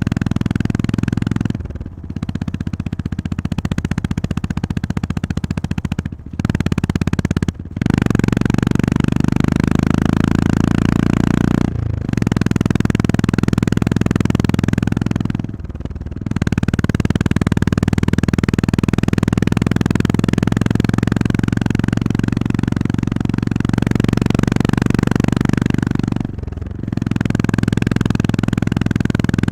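Honda GB350S's air-cooled single-cylinder engine running under way, a steady low drone that dips briefly about six times as the throttle closes and reopens.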